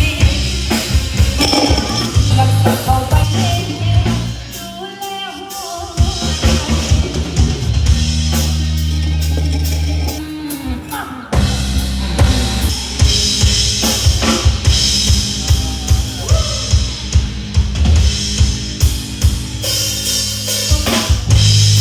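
Live band playing an instrumental passage, the drum kit to the fore with regular hits over deep bass notes, and a brief drop-out of the drums near the middle.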